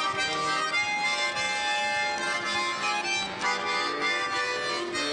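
An accordion playing a melody over held chords, an instrumental phrase between the sung lines of a Russian popular song.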